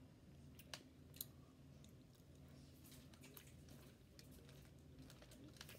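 Faint chewing of food, with soft, scattered mouth clicks, two a little louder about a second in, over a low steady room hum.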